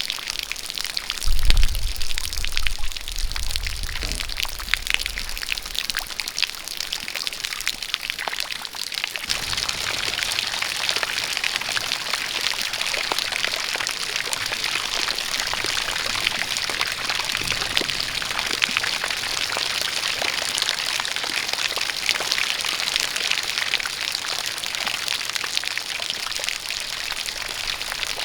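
A jet of water pouring steadily, with rain falling around it. There is a brief low rumble about a second and a half in, and from about nine seconds on the water noise grows fuller and denser.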